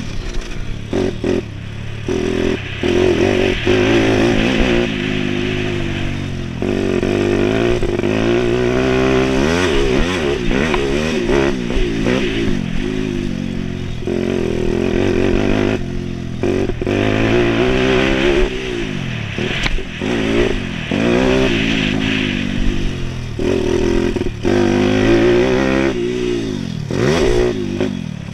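YX140 single-cylinder four-stroke pit bike engine being ridden hard, revving up and backing off over and over as the minibike goes around a track.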